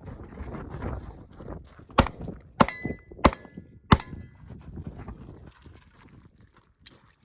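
Four gunshots in quick succession, about two-thirds of a second apart, the second and third followed by a brief metallic ring typical of a hit on a steel target. Wind rumbles on the microphone around them.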